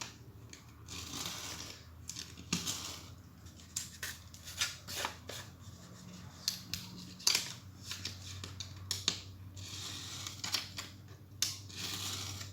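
Scissors cutting off the overhanging tabs of toner-transfer paper around a copper-clad circuit board: a series of irregular snips with paper rustling between them.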